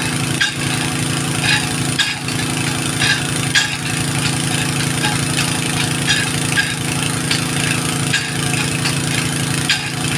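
An engine running steadily, with repeated short sharp clicks over it.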